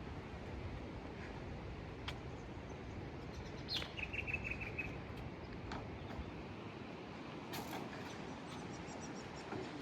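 A bird calls about four seconds in: a quick downward note followed by a short run of rapid chirps. A steady low rumble runs underneath, with a few faint clicks.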